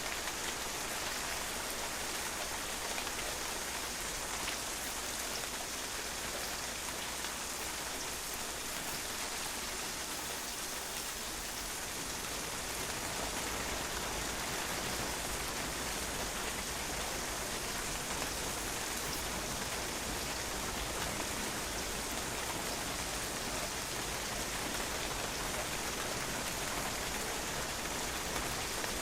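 Steady rain, drops splashing on a patio in an even, unbroken hiss.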